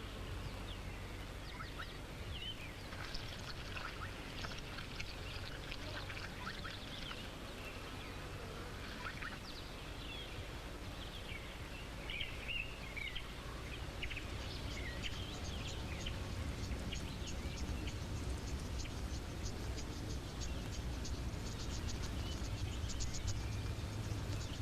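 Natural outdoor ambience of small animal calls: scattered short chirps and whistles, then from about halfway a fast, even run of ticking calls, over a steady low rumble.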